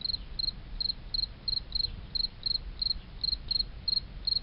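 A cricket chirping steadily, short high chirps at about three a second, over a faint low hum.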